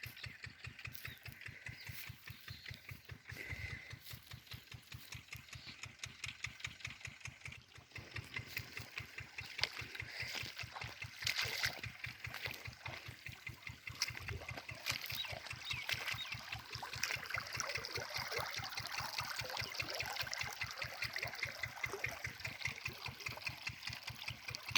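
Field Marshal 10 hp single-cylinder diesel engine running steadily under load, driving a water pump, its firing beats coming evenly at about five a second.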